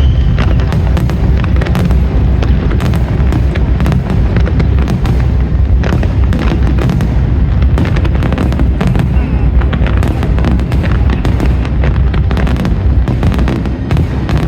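Fireworks display at full intensity: a dense run of sharp bangs and crackling reports over a continuous low rumble of shell bursts.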